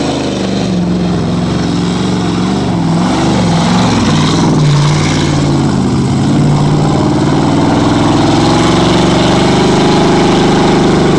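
4x4 truck engine revving while driving through mud, the pitch swinging up and down for the first few seconds, then held steady at high revs for the rest.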